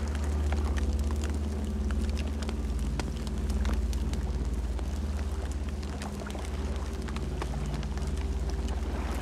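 Campfire burning: a steady low rumble of flames with frequent sharp crackles and pops from the burning wood.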